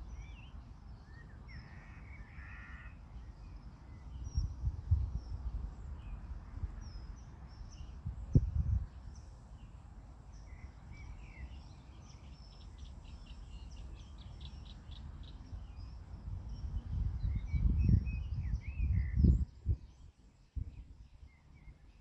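Birds calling and chirping, with one harsher, rasping call about two seconds in, over a low rumbling noise that swells louder a few times.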